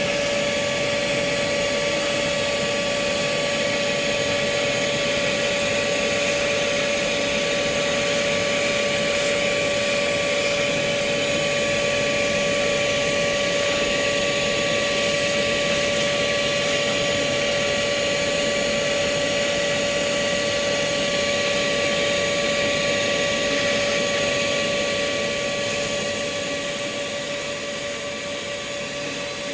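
Bee vacuum running steadily, sucking bees off an open-air comb hive, its motor giving a constant whine over a rushing noise. It eases off a little near the end.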